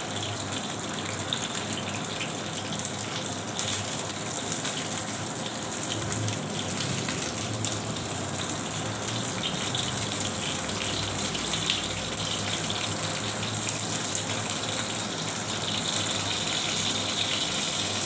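Lumpia deep-frying in hot oil, a steady sizzle full of fine crackles and spits.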